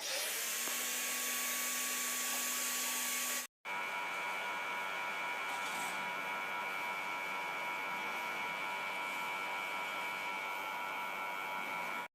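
A motor running steadily with a hum and a high whine, its pitch constant, cut off for an instant about three and a half seconds in.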